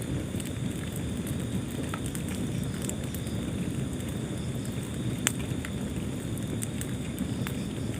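Wood fire burning in a fireplace: a steady low rumble of flames with scattered crackles and one sharp pop about five seconds in.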